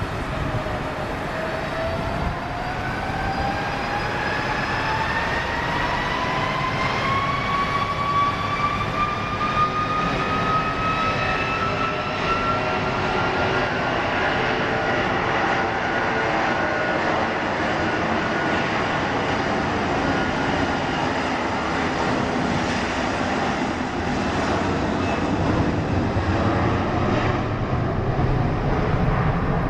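Jet airliner engines spooling up: a whine rising steadily in pitch over roughly the first fourteen seconds, then holding level, over a broad engine rumble.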